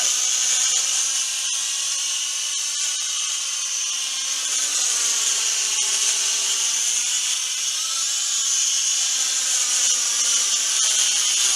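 Huajun Toys Flanker W606-5 toy quadcopter hovering in altitude hold. Its small motors and propellers give a steady high-pitched whine that drifts a little up and down in pitch as it holds its height.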